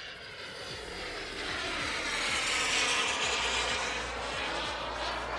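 Twin Xicoy 180 jet turbines of a large RC model jet whining as it flies past. The sound grows louder toward the middle, then fades away.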